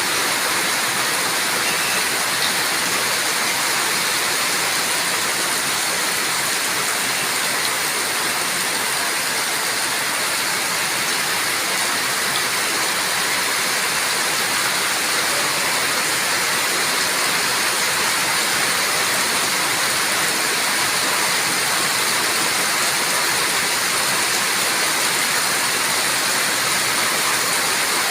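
Steady rain falling: an even, unbroken hiss of water that holds the same level throughout.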